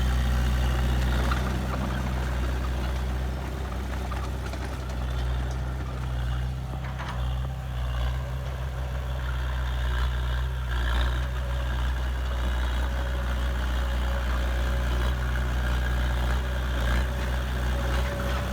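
Heavy diesel engine of earthmoving machinery running steadily, a low even engine note with some extra mechanical noise in the middle.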